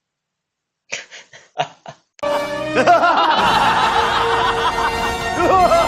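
A short run of snickering laughter, then about two seconds in music starts with laughter running over it.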